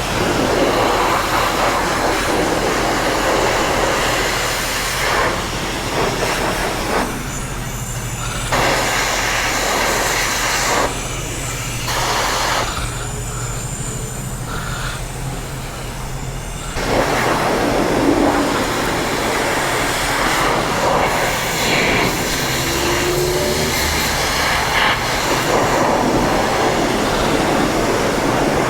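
Car-wash pressure-washer wand spraying water onto a motorcycle, a loud hiss that cuts out and starts again several times as the trigger is released and pulled, over a low steady hum.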